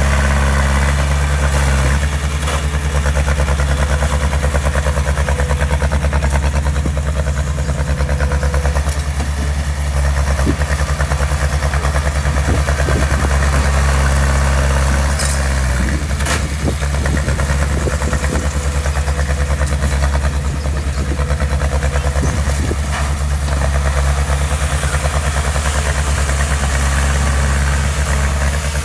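Heavy construction machine's diesel engine running steadily at low revs, with a few short clanks in the middle.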